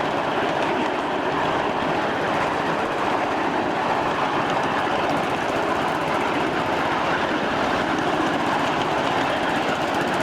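A 1/8-scale ride-on miniature train running along its track, heard from on board: a steady, loud rolling and rattling of wheels on the rails.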